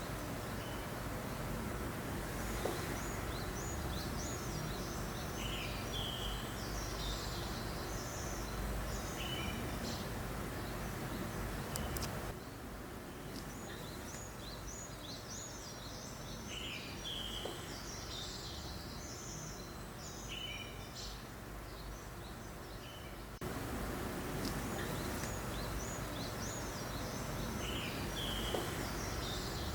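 Steady breeze noise with small birds chirping over it in short, high calls. The whole bed drops a little in level for about eleven seconds in the middle, then comes back.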